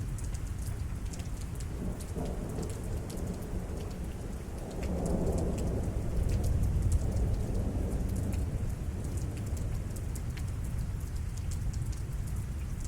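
Rain falling steadily, with drops ticking on surfaces, under a low rolling rumble of thunder that swells about five seconds in and fades over the next few seconds.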